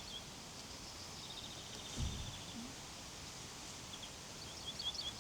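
Quiet outdoor ambience with a small bird chirping in quick runs of short, high notes near the start and again in the last second, and a faint high twittering in between. A soft low thump comes about two seconds in.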